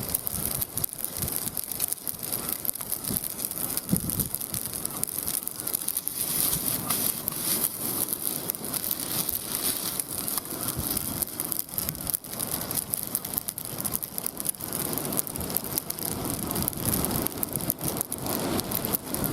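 Steady crackling and sizzling hiss from cooking over a wood campfire, with many small sharp pops throughout.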